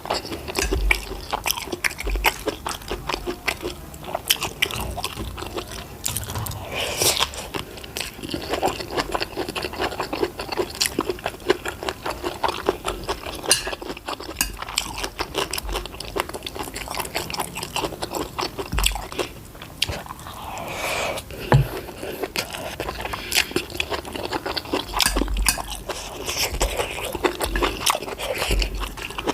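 Close-miked chewing and biting of food, with many rapid, irregular wet mouth clicks and crunchy bites.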